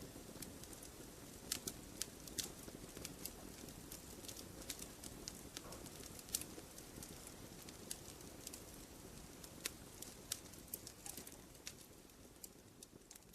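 Wood fire crackling in a fireplace: irregular sharp pops and snaps over a soft, steady low rumble, fading down near the end.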